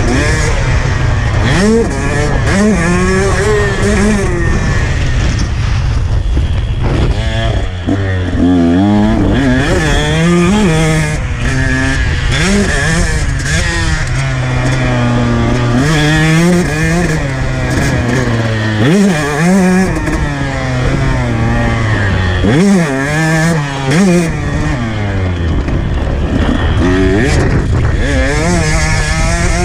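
2019 KTM 125 two-stroke dirt bike engine revving up and backing off again and again, its pitch climbing and falling every few seconds, over heavy low wind rumble on the microphone.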